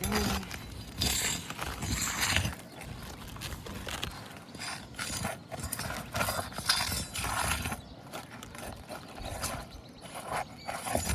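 Irregular scraping, crackling and knocking as a pry bar and asphalt shingles are worked loose on a roof, in uneven bursts.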